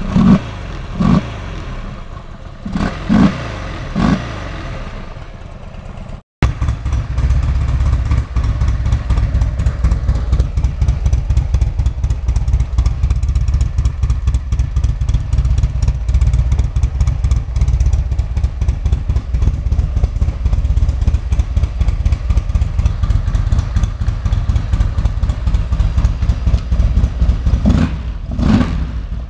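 Buell XB12's air-cooled V-twin engine blipped through several short revs over the first few seconds, then, after an abrupt cut, idling with a steady pulsing beat and revved twice more near the end.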